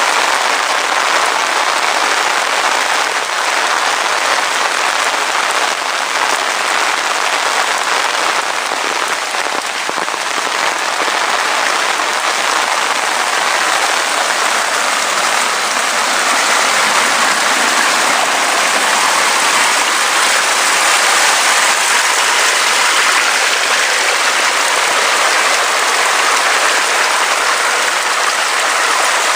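Heavy, steady rainfall: a dense, even hiss that swells slightly a little past halfway.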